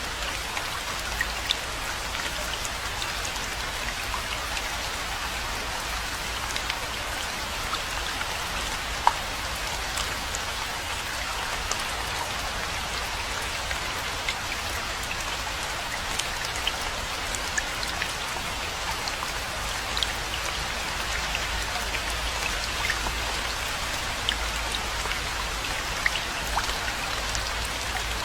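Steady rainfall, an even patter with scattered louder individual drop hits throughout.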